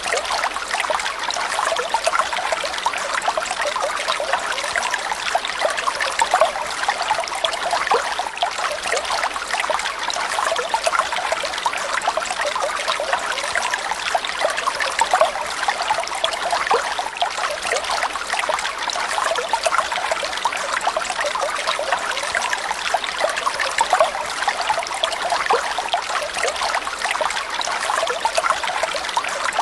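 Water trickling steadily in a continuous stream, the water-sound backing used in songbird training recordings.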